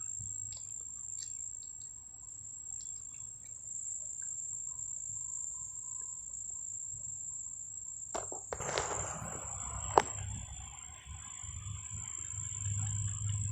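A steady, high-pitched insect drone, like crickets, running throughout. About eight seconds in there is a burst of rustling or handling noise, and about ten seconds in a single sharp click, the loudest sound.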